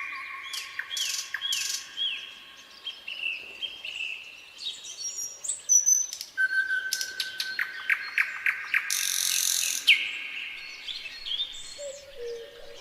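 Nightingale singing a varied song: repeated falling notes, then a held whistle that breaks into a fast series of sharp clicks, and a harsh rattle about nine seconds in. Two low, held notes sound near the end.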